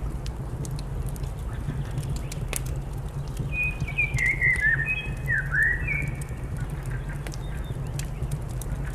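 Fireplace crackling with scattered sharp pops over a steady low hum, while a bird calls a quick series of short chirping notes from about three and a half to six seconds in.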